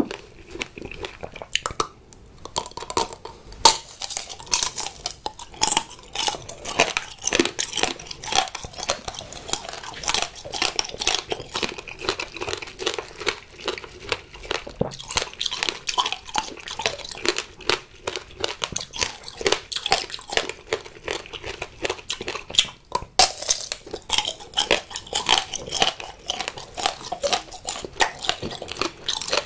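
Close-miked chewing of green grape tanghulu: rapid crunches of the hard sugar-glass coating cracking between the teeth, with mouth sounds between them.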